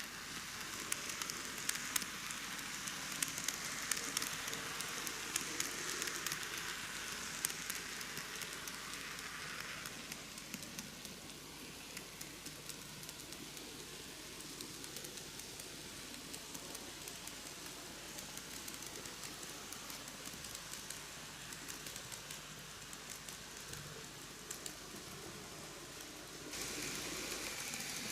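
KATO N-gauge C11 model steam locomotive running along the layout track with its coaches: a steady hiss from the small motor and wheels on the rails, with many small irregular clicks. It grows quieter about ten seconds in and louder again near the end, as the train moves away and comes back.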